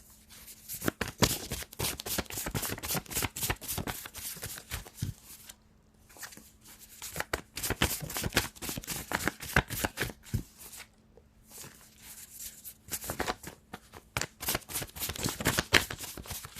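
A deck of cards being shuffled by hand, with rapid riffling and flicking clicks in three bursts separated by short pauses.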